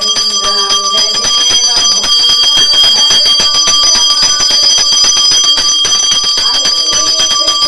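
Pooja hand bell (ghanti) rung rapidly and without pause, a steady metallic ringing with quick repeated strikes.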